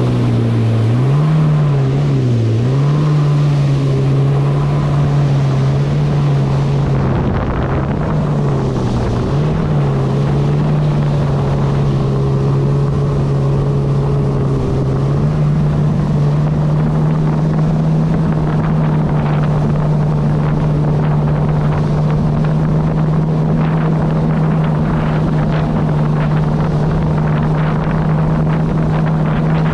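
Kawasaki SX-R 160 stand-up jet ski's 1500cc engine running under way. Its pitch dips and rises with the throttle several times in the first half, then holds steady a little higher for the rest. Wind is on the microphone.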